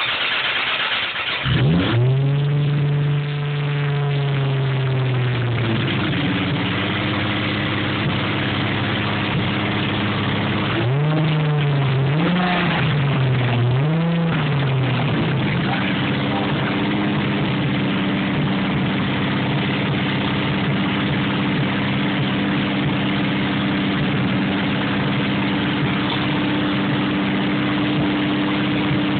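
Toyota Supra engine on its first start after a build: it cranks briefly, catches about a second and a half in and runs fast, settles to a lower steady idle around six seconds in, is revved three times in quick succession near the middle, then idles steadily.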